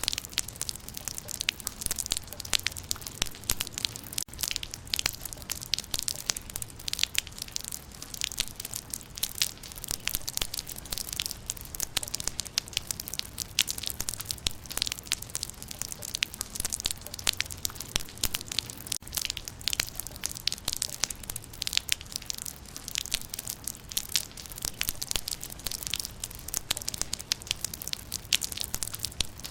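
Steady rain falling on leaves, many small drops pattering densely and irregularly, with sharp ticks from individual drops.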